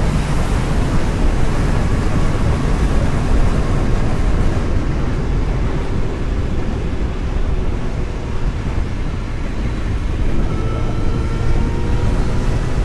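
Vehicle driving on the road: steady engine and road noise, with the engine note rising gently in the second half.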